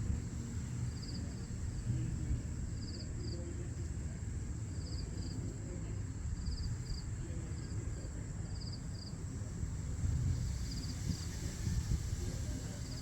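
Outdoor dawn ambience: a high insect chirp in short pulsed pairs repeats about every second and a half to two seconds over a thin steady high whine, with a steady low rumble underneath.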